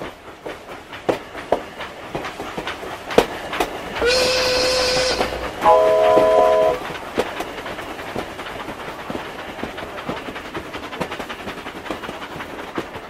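Train sound effects: a train rolling along the rails with a steady clatter of wheel clicks. About four seconds in, a whistle blows for about a second with a hiss over it, followed at once by a shorter horn chord of several notes.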